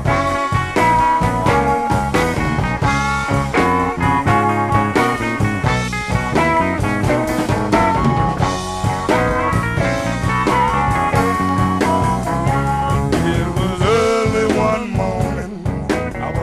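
Electric blues band playing an instrumental passage, with guitars over bass and drums, and bent, sliding melody notes near the end.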